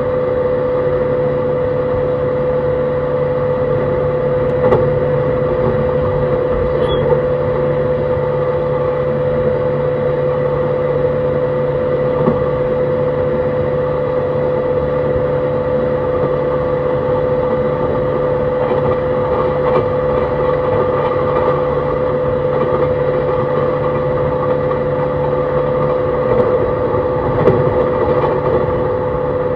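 Onboard running sound of a JR East E131-600 series electric train with Hitachi hybrid SiC VVVF inverter drive: steady traction-motor and inverter hum with a held tone over wheel-on-rail noise, at constant speed. A lower hum drops out near the end, and a few faint knocks come from the track.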